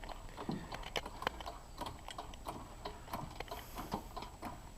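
Scattered light clicks and knocks at an uneven pace, the sound of tools and parts being handled while a car jack and wood block are set up.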